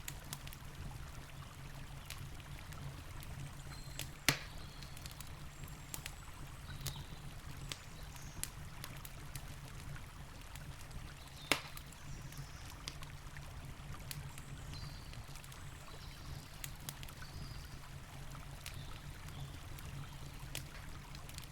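Campfire crackling with scattered small snaps and two sharp, loud pops, about four seconds and eleven and a half seconds in, over the steady low rush of a river.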